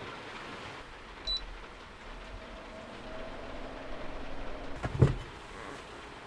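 Small handling noises over a steady hiss: a short high beep about a second in, then rustling that ends in a single sharp knock about five seconds in.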